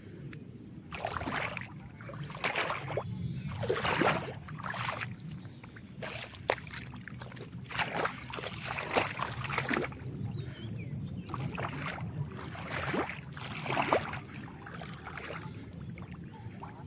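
Tractor diesel engine running steadily, with repeated splashing and sloshing of mud and water every second or two, typical of a tractor churning in a muddy, waterlogged field.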